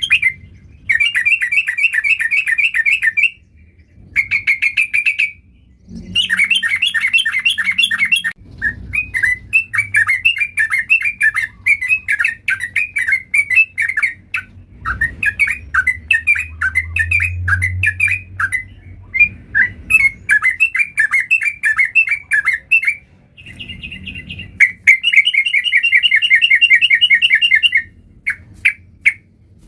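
Yellow-vented bulbul (trucukan) singing loudly in long runs of rapid, repeated chattering notes, with short pauses between phrases.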